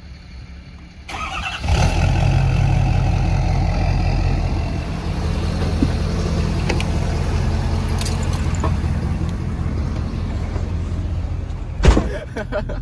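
Lifted pickup truck's engine starting about a second in, rising in pitch as it catches, then running steadily. A single sharp thump near the end.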